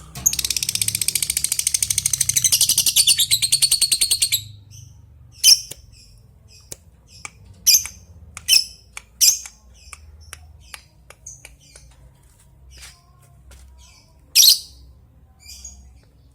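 Lovebird giving a fast, high-pitched rattling chatter (the long 'ngekek') for about four seconds, then a string of sharp single chirps and ticks spaced out over the rest of the time.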